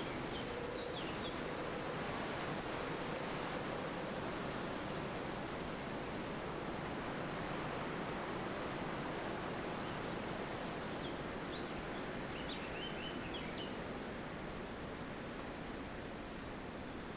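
Steady wind rushing through forest trees, with a few short bird chirps: a brief cluster about a second in and a longer run of chirps about two-thirds of the way through.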